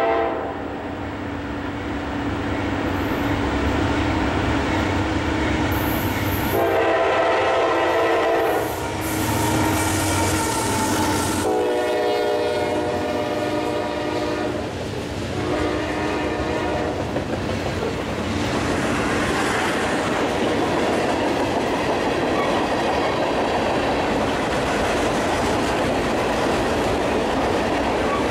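Freight train's diesel locomotive horn sounding several blasts as it comes through, the longest a few seconds each, over a low engine rumble. In the second half the horn stops and the freight cars roll by with steady wheel clatter on the rails.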